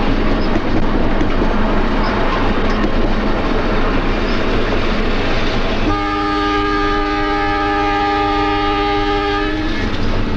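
Electric interurban train running past with a steady rumble and some clatter of wheels on rail, then one long horn blast about six seconds in that holds a steady chord for nearly four seconds and stops.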